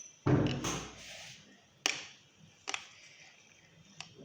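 A knife cutting a brownie and knocking against its plastic container: a dull thud just after the start, then three short sharp clicks spread through the rest.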